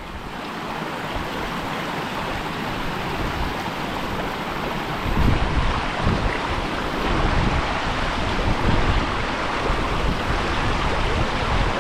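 River water rushing steadily, with wind buffeting the microphone from about five seconds in.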